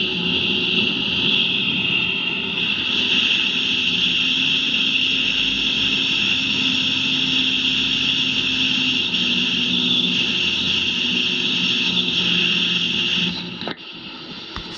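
Tour speedboat's motor running steadily, with a constant hiss of wind and water over it; the sound drops off abruptly about a second before the end.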